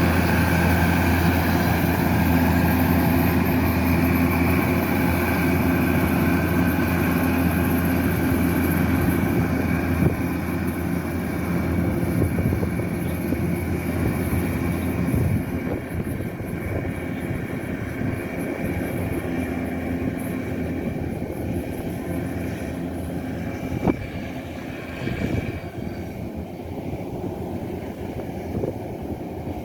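A Kubota DC-105X combine harvester's diesel engine running steadily with a low hum. It is loud for the first ten seconds or so, then grows quieter and rougher, with a single sharp knock about three-quarters of the way through.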